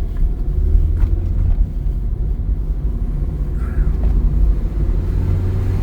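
Steady low engine and road rumble of a car driving, heard from inside the vehicle as it pulls away up the road.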